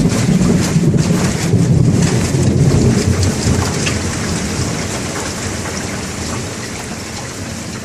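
Heavy rain falling, with close drops ticking sharply, under a long roll of thunder that slowly fades away over the seconds.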